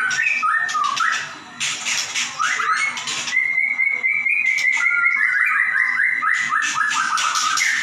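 White-rumped shama singing a loud, varied song of whistled phrases and sharp clicking notes, then a long run of fast repeated notes from about two and a half seconds in to near the end. This is the rapid-fire 'nembak' style of song.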